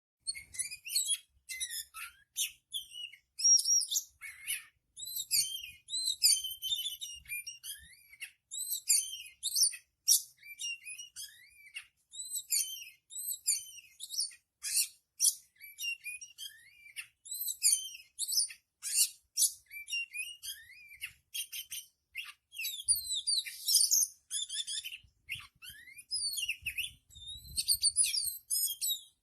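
Oriental magpie-robin singing an unbroken run of varied song: fast high whistles, rising and falling slurs and sharp chipping notes following one another without a pause.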